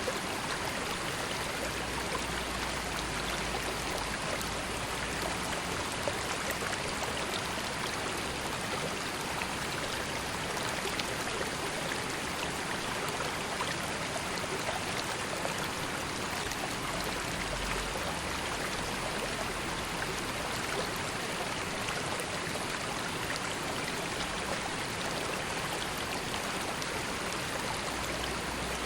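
River water flowing and babbling over stones, a steady even rush with fine splashing detail.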